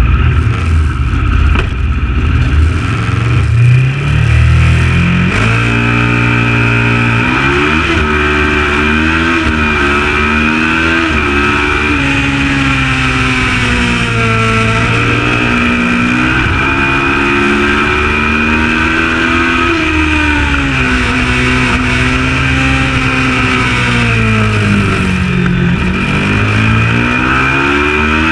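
Kawasaki ER650 racing motorcycle's 649 cc parallel-twin engine under hard acceleration. After a rough, loud first few seconds, the revs climb and drop again and again as it changes gear and brakes for corners.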